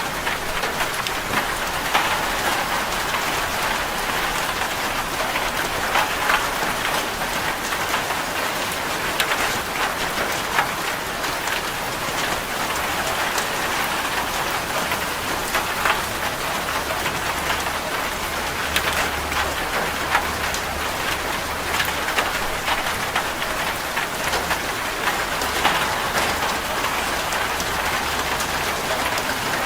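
Steady rain falling on a corrugated zinc sheet roof: a dense, even patter with many sharp individual drop hits on the metal.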